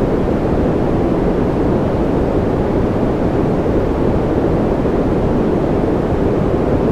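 Steady white-noise ambience track: a continuous, even rushing noise weighted toward the low end, with no change.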